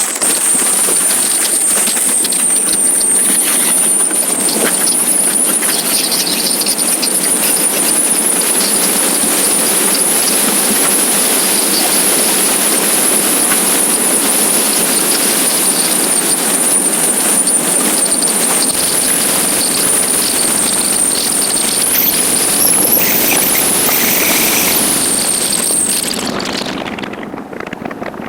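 Wind and road noise rushing past a moving motorcycle, steady and loud, with a thin high-pitched whine over it. The whine stops and the rush eases briefly near the end.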